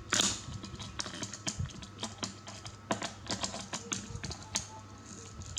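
Small toy cars being handled, giving irregular light clicks and taps, the loudest right at the start.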